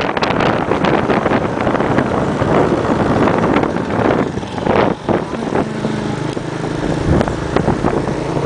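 Motorbike ride with heavy wind buffeting on the microphone over the bike's running engine. The engine's low, steady hum comes through more clearly a little past halfway, as the wind noise eases.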